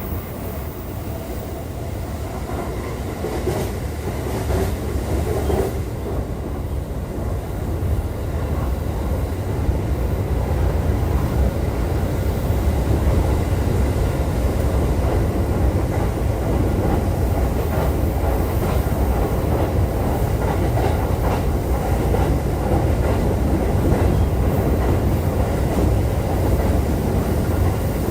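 JR East E531 series electric train running on the Joban Line, heard inside the car: a continuous rumble of wheels on rail with clickety-clack over the rail joints. It grows louder over the first dozen seconds, then holds steady.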